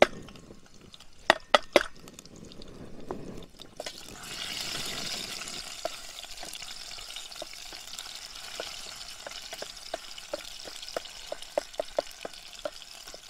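Chopped onion and tomato sizzling in hot oil in a steel pot, with a wooden spoon clicking against the pot as it stirs. A few sharp taps in the first two seconds as the vegetables are knocked in from a plastic bowl; the steady sizzle sets in about four seconds in.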